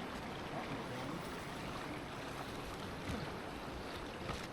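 Steady rushing of flowing creek water in a slot canyon.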